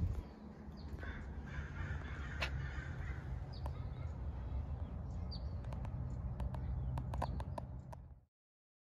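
Birds calling over a steady low rumble, with a quick run of sharp clicks near the end before the sound cuts off abruptly.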